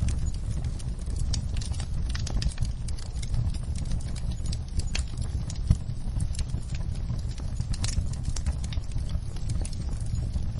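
Wood fire burning in a fireplace: logs crackling with irregular sharp pops and snaps over a steady low rumble of flames, one louder pop a little past the middle.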